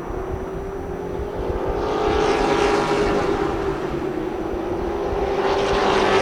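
Engines of racing trucks running in a pack on a speedway, a steady drone that swells louder about two seconds in and again near the end as the field goes by.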